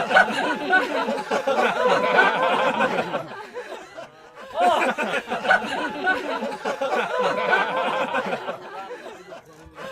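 Many voices laughing and chattering together, in a pattern that repeats about every five seconds.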